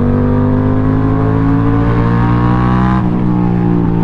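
Yamaha MT-07's parallel-twin engine, breathing through a baffle-less GRMOTO full exhaust system, accelerating hard with the revs climbing steadily. About three seconds in the revs drop at an upshift, then climb again as it pulls in the next gear.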